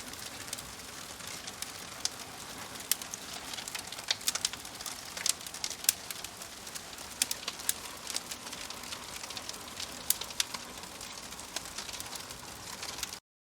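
Campfire crackling: sharp, irregular pops and snaps over a soft hiss. The sound cuts out for a moment near the end.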